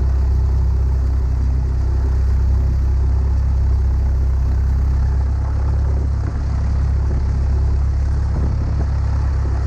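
Cessna 172's piston engine and propeller running steadily at taxi power, a loud, even low drone with no change in pitch.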